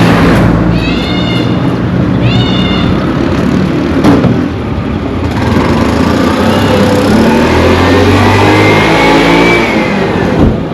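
Road traffic with vehicle engines running. Two short, high calls come in the first few seconds, a knock follows about 4 s in, and in the second half an engine's pitch rises and then falls away as a vehicle accelerates past.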